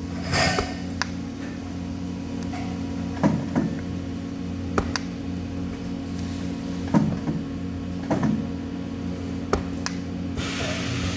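Steady electrical hum of workshop equipment, with scattered metal clicks and knocks, and a hiss that starts near the end.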